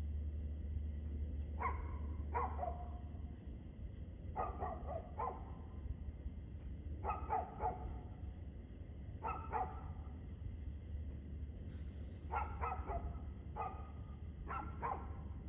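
A dog barking over and over in short runs of two or three barks, a run every two to three seconds, over a steady low hum.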